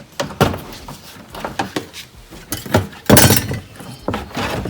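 Plastic retaining clips and trim on a 2014 Subaru G4 rear bumper cover being pried and worked loose by hand: a string of sharp clicks and knocks, the loudest a dense clattering burst about three seconds in.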